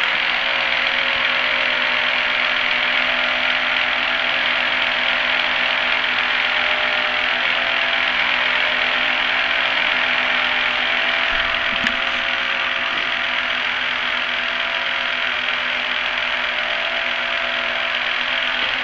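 Key duplicating machine running steadily while its cutter wheel cuts a key, with a continuous motor hum and grinding hiss. The cutter is worn enough that the locksmith thinks it needs replacing, and the cut is slow.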